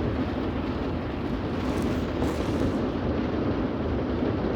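Heavy rain drumming steadily on a vehicle's roof and windshield, heard from inside the car as a dense, even roar.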